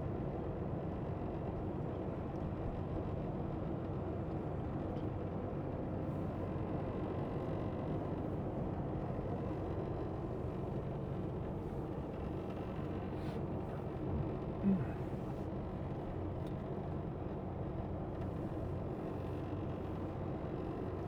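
Semi truck's diesel engine running steadily at low speed, with road noise, heard from inside the cab.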